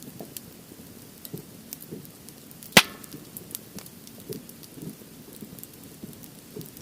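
Firewood burning in a campfire stand, crackling with scattered small pops. One loud sharp crack comes a little under three seconds in.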